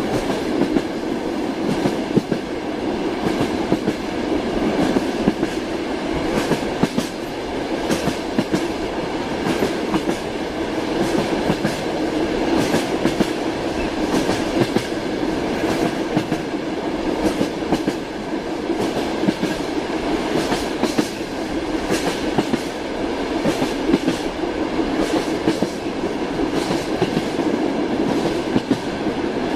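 Train wheels clattering over rail joints: a steady running rumble with frequent sharp clicks and knocks throughout.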